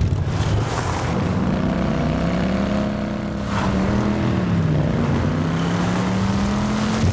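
Quad bike engine revving under way. Its pitch climbs, dips briefly about five seconds in, then climbs again before cutting off.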